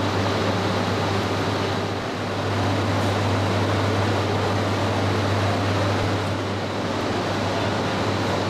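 Steady hum and rush of a stationary E3-series shinkansen's air-conditioning and on-board equipment, with a low drone and a faint steady high whine over it.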